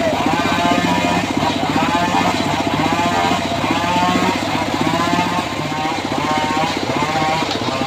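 Engine of a homemade circular sawmill running steadily, with a whining tone that rises and falls about once a second.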